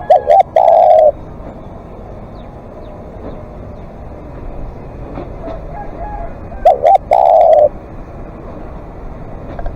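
Spotted dove cooing twice, about six and a half seconds apart. Each call is a couple of short notes followed by a longer coo.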